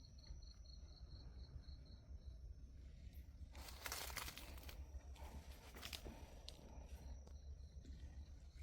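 Faint chirping of a cricket, a high pulsed note repeating about four times a second in the first couple of seconds, with a brief rustle near the middle.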